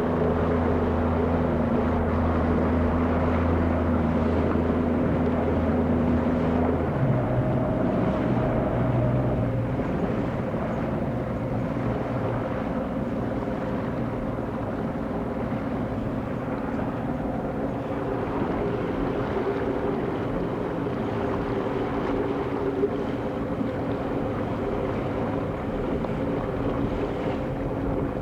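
Motorboat engine running steadily, its note changing about seven seconds in and then running a little quieter, over a steady rush of wind and water.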